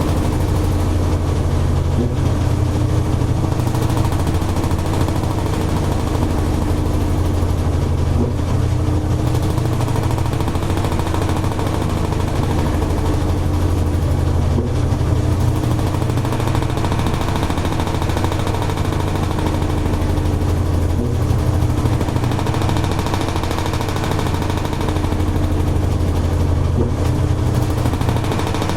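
Toshiba AW-42SEE4 fully automatic washing machine running mid-cycle: a steady low motor hum that swells and eases every few seconds, with a wavering tone above it and a few faint clicks.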